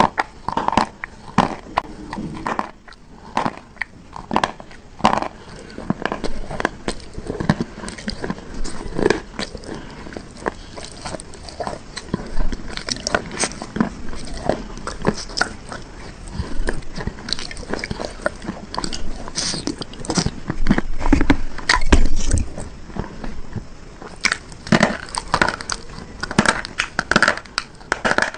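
A person biting and chewing hard, crunchy bars: a long run of irregular sharp crunches and snaps, loudest a little past two-thirds of the way through.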